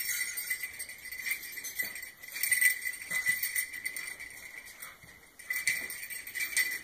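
Small bells jingling in irregular shakes, with a quieter moment about five seconds in.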